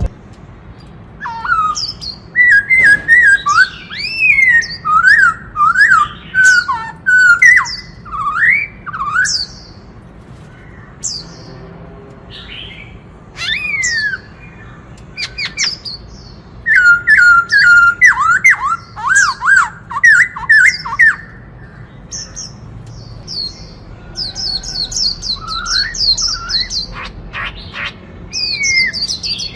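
Black-throated laughingthrush singing: loud bursts of rising and falling whistled phrases separated by short pauses, with a run of rapid high chattering notes near the end.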